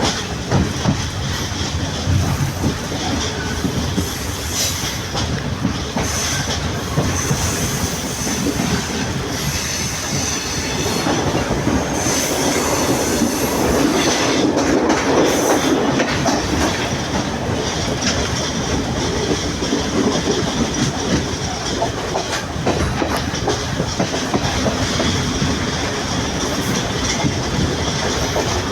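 Sri Lanka Railways Class S11 diesel multiple unit running along the track, wheels clacking over the rail joints. It grows louder for a few seconds midway.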